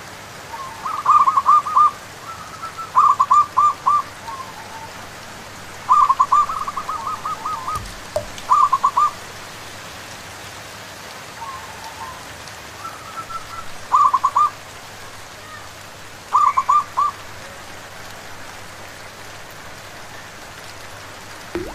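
Zebra doves (perkutut) cooing in bursts of quick, repeated notes, louder and softer calls trading back and forth, over a steady hiss of falling rain.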